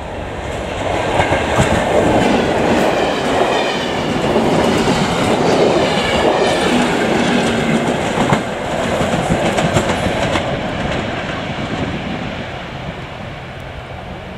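A test train hauled by a pair of Class 73/9 locomotives, one at each end, passing through at speed. It grows louder as it approaches, its wheels clatter over the rail joints as it goes by, and it fades away as it leaves.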